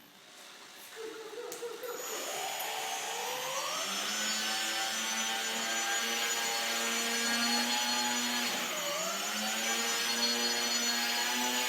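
RC rescue boat's motor speeding up to a steady whine over the first few seconds, dipping briefly near nine seconds in and then picking back up.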